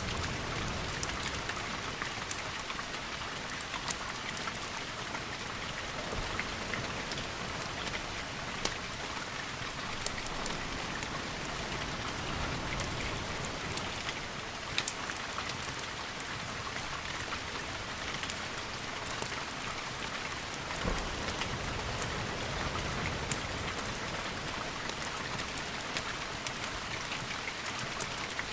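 Steady rain: an even hiss with many scattered sharp ticks.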